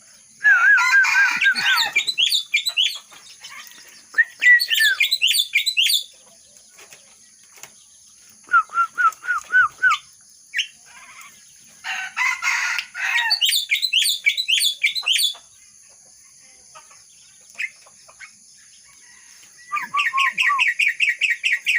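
A myna singing, mimicking the song of a red-whiskered bulbul: about five bursts of quick repeated whistled notes and trills, separated by short pauses.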